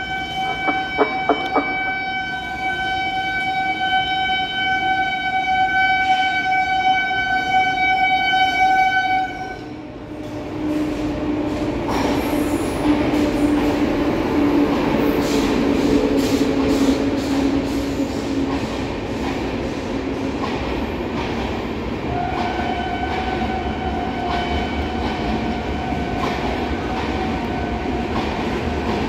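An Indian Railways express train passing through a station at speed without stopping. The locomotive's horn is held in one long blast for about nine seconds, then the locomotive and coaches rush past with a rumble and a regular clickety-clack of wheels over the rail joints. About 22 seconds in, a fainter horn tone sounds again and is held to the end.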